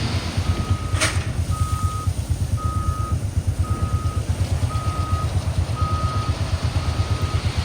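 Backup alarm on a heavy earthmoving machine (motor grader or bulldozer), beeping steadily about once a second in half-second beeps, over its diesel engine running with a fast low throb. There is one sharp knock about a second in.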